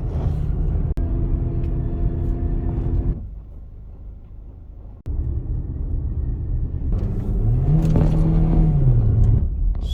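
A car on the move: steady engine and road rumble, with a quieter stretch in the middle and an engine note that rises, holds and falls near the end.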